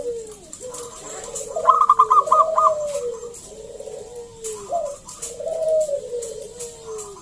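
A local zebra dove (perkutut) singing in full voice: repeated cooing phrases of quick bending notes, with a short higher trill in the first phrase.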